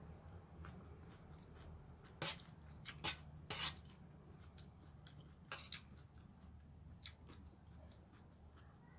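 Faint eating sounds over raw vegetable salad: a handful of short, crisp crunches and clicks, the loudest three coming about two to four seconds in, over a low steady hum.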